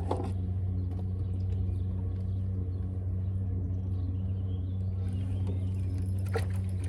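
A motor running steadily: an even, low hum that holds the same pitch throughout.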